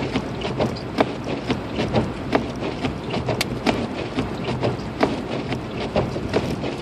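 Inside a Lexus IS250 AWD driving through a snowstorm: steady tyre and road noise with irregular sharp ticks, two to four a second, of snow and ice striking the car.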